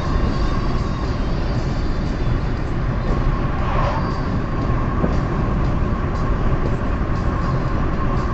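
Steady road noise of a car driving on a highway: a low rumble with a faint steady whine, and a brief swell about four seconds in.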